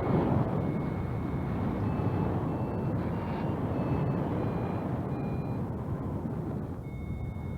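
Strong wind rushing over the microphone of a paraglider pilot in flight in strong wind. Faint steady high tones sit above it and change pitch several times.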